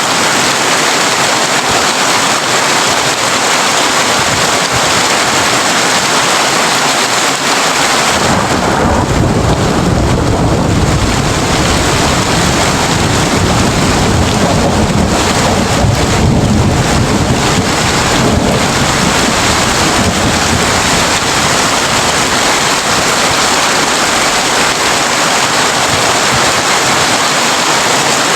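Heavy rain drumming steadily on a tin roof. About eight seconds in, a long low roll of thunder comes in, rumbling for about ten seconds before it fades back under the rain.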